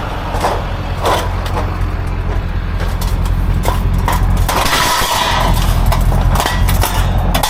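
Steady low engine rumble with scattered short knocks and clanks, the sound of heavy scrap steel being handled; a brighter hiss joins about halfway through.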